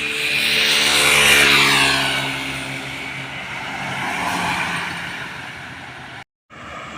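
A heavy truck drives past close by. Its engine note is loudest about a second in and drops in pitch as it goes by, then fades. The sound cuts out abruptly near the end.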